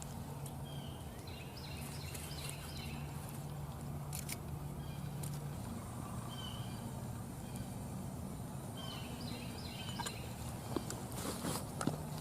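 Birds calling outdoors: short chirping calls in quick clusters near the start and again near the end, with a few sharp clicks over a steady low background hum.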